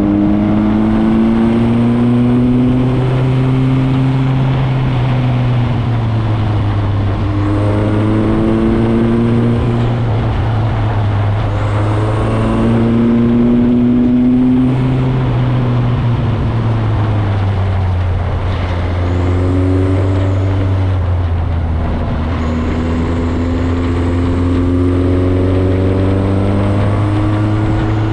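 Motorcycle engine under way, its pitch climbing and then dropping back with each gear change, five or so times, over steady wind and road noise.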